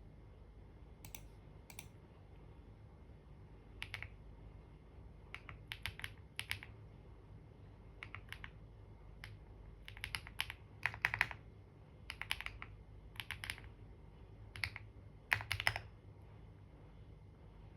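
Typing on a computer keyboard: short bursts of keystrokes with pauses between them, the loudest runs about eleven and fifteen seconds in, stopping about a second before the end.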